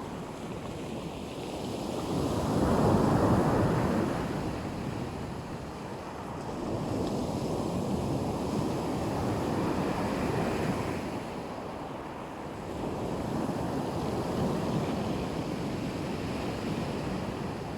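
Black Sea surf: waves breaking and washing onto the shore in slow swells, the loudest surge about three seconds in and gentler ones following.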